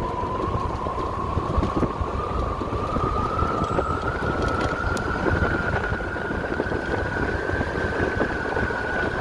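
Electric motorcycle's motor whine rising steadily in pitch as the bike accelerates, then levelling off at cruising speed, with wind rushing over the microphone.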